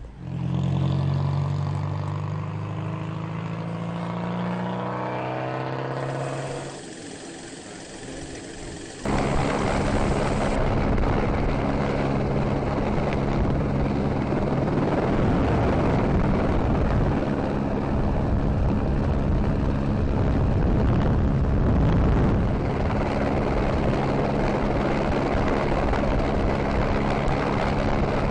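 A car engine note, falling slightly in pitch, for about six seconds and then fading. From about nine seconds comes the loud, unchanging drone of a helicopter: rotor and turbine holding a steady pitch over heavy noise.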